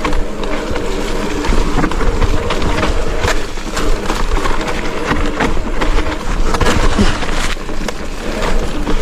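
Mountain bike rolling fast down a muddy trail: tyres on wet ground and a steady clatter of chain and frame rattles with frequent knocks, over a low rumble of wind on the microphone.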